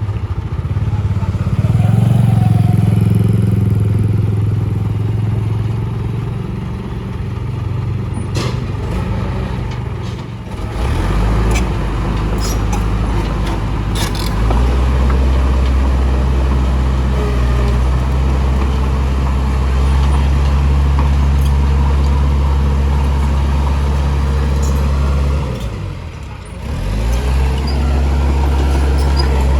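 Heavy diesel engines of earthmoving machinery, a dump truck and a bulldozer, running under load as a steady low drone. It drops away and picks up again twice, once dipping and rising in pitch, with a few sharp metal clanks.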